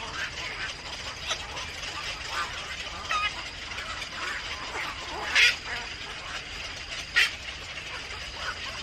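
Birds calling with many short chirps, and two louder, harsh calls about five and seven seconds in.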